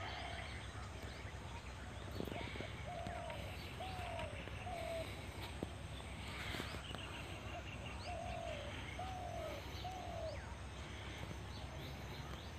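A bird calling in two bouts of three short, arched, cooing notes, the bouts a few seconds apart, with faint high chirps from other birds.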